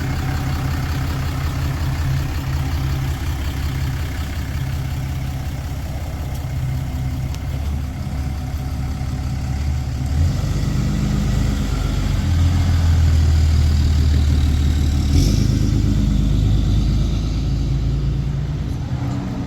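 Pickup truck engine running while the truck is driven slowly, growing louder and deeper for several seconds from about halfway through as it pulls under more throttle.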